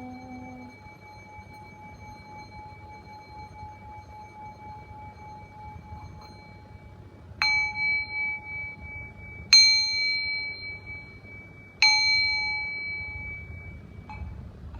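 A small metal bell struck three times, a couple of seconds apart, each strike ringing on with bright, clear overtones and fading slowly, over the faint tail of an earlier ring.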